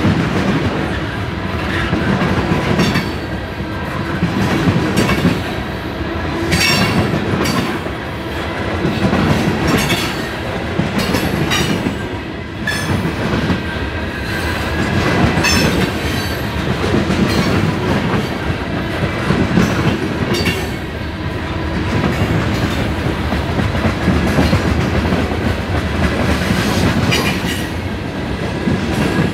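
Train rolling past close by, its wheels clacking over rail joints. The clatter swells and eases about every two seconds, with faint steady high tones over the rumble.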